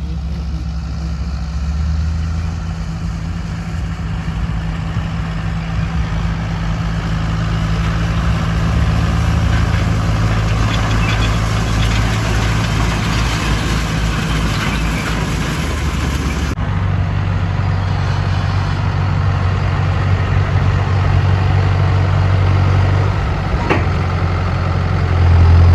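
Tractor engine running steadily under working load with hay equipment. The engine note changes abruptly about two-thirds of the way in.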